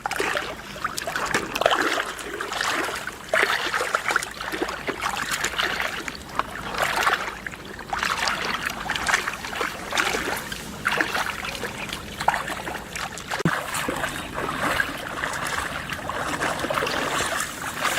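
Shallow floodwater in a rice field splashing and sloshing irregularly as it is waded and worked through, with many short uneven splashes.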